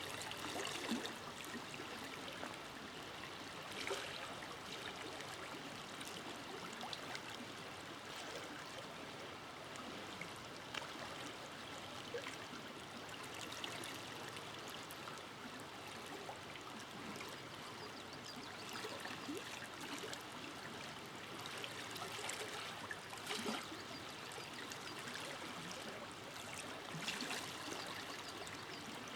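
River water flowing over stones in a forest: a steady rushing and babbling, with small splashes and a few brief louder surges.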